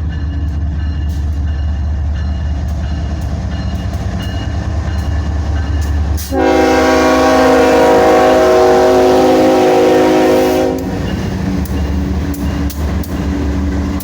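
Union Pacific diesel freight locomotives running with a steady low rumble as the train moves slowly. Partway through, the lead locomotive's air horn sounds one long blast of about four and a half seconds, then cuts off.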